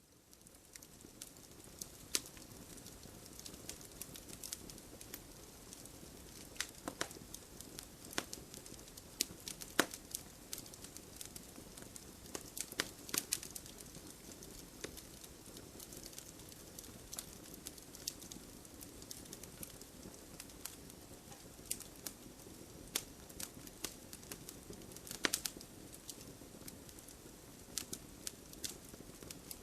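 Wood fire crackling: a steady low rush of burning logs with irregular sharp pops, a few louder ones standing out about ten seconds in and again near twenty-five seconds.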